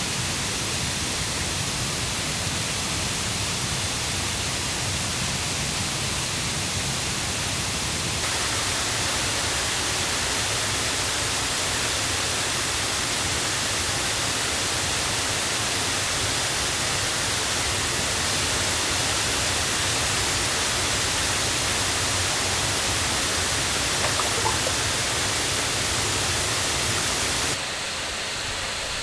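Mountain river and waterfall running high and fast after rain: a loud, steady rush of water. Its tone shifts abruptly twice.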